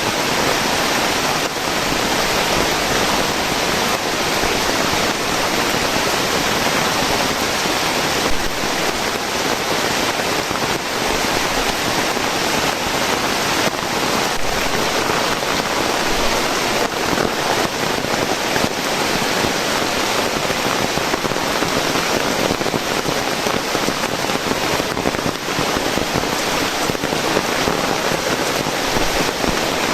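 Steady rain falling, a dense even patter of drops that does not let up.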